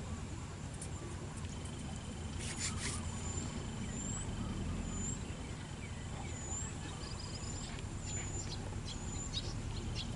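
Outdoor waterside ambience: a steady low rumble with repeated short, high bird chirps and a faint steady high tone through the middle, plus a few brief clicks.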